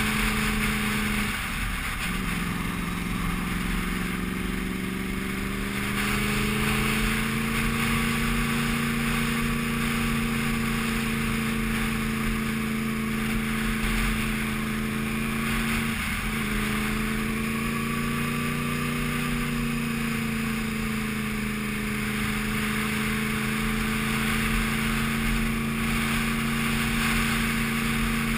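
Sport motorcycle engine running under load on a steady climb, heard from the bike itself. Its pitch drops at a gear change about a second in, rises again over the next few seconds, and dips briefly once more about halfway through, over a constant rush of wind noise.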